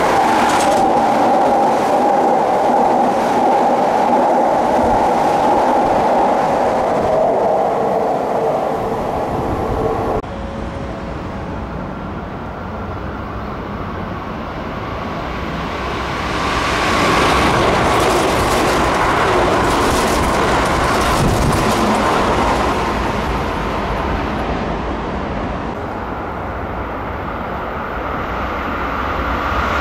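Electric commuter trains passing through stations at high speed: a loud, steady rush of wheels on rail as the first train runs through. It cuts off suddenly about ten seconds in; after that a quieter rush swells and fades in the middle, and another train's noise rises near the end as it approaches.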